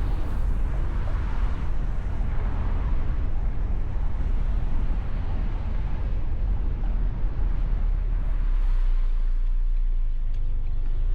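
Mustang convertible driving: a steady low rumble of car and road noise.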